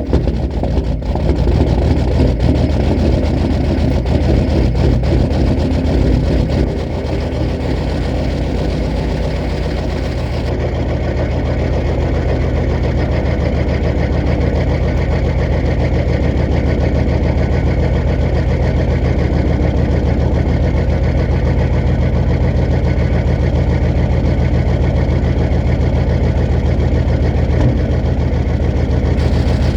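GM 6.5-litre V8 diesel running just after a cold start in 0°F cold. It runs louder and busier for about the first six seconds, then settles into a steadier, slightly quieter idle.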